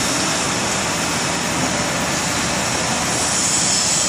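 Machinery running with a steady rushing noise, even throughout with no distinct strokes or impacts.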